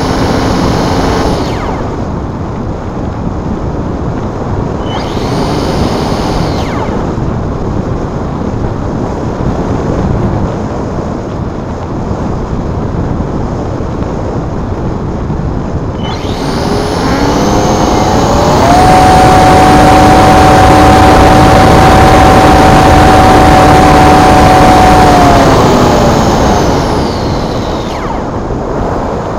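The upgraded electric motor of a Multiplex Blizzard RC plane whines in short throttle bursts. About halfway through it rises in pitch to a steady high whine, holds for several seconds, then winds down. Constant rushing wind noise sits on the microphone throughout.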